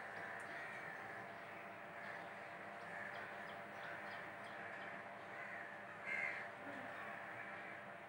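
Birds calling continuously in the background, crow-like caws overlapping, with one louder call about six seconds in.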